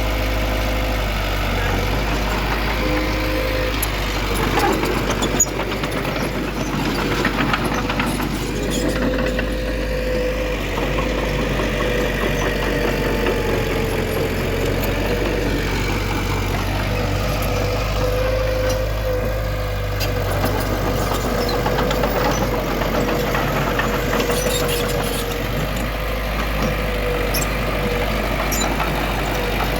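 Heavy diesel earthmoving machinery running steadily, with one sharp knock about five seconds in.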